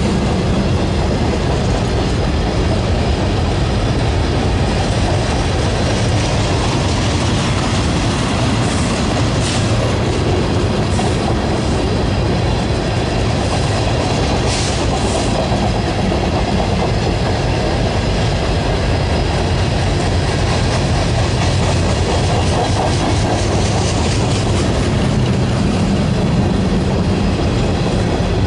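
Railroad cars of a passing train rolling by at a steady loud level, wheels clicking over the rail joints, with a few brief high screeches near the middle.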